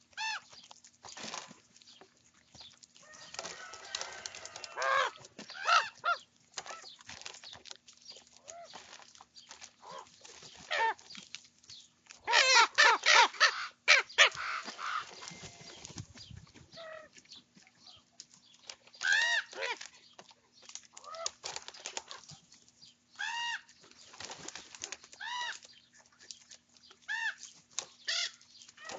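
Young ravens calling harshly over and over while squabbling over food, in scattered bursts of short croaks and caws, busiest and loudest about halfway through.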